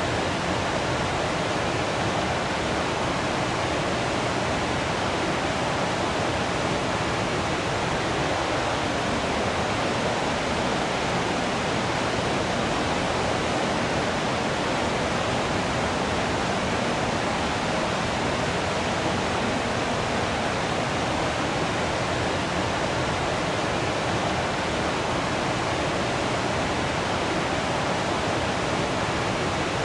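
Waterfall: water falling and rushing in a steady, unbroken hiss with no changes.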